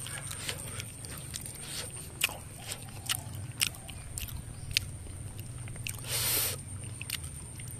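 A person chewing soft boiled banana, with scattered wet mouth clicks about once a second and a brief burst of hiss about six seconds in.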